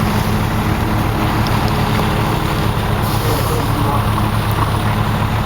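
Fire engine's engine running steadily with a constant low hum that holds the same pitch throughout.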